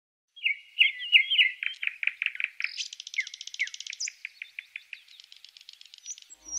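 A songbird singing: quick repeated chirps, then a fast high buzzy trill, then a run of separate short notes.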